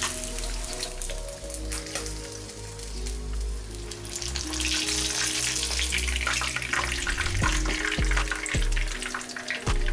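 Chicken wings deep-frying in hot oil in a pan, crackling and sizzling, growing louder about halfway through, over background music.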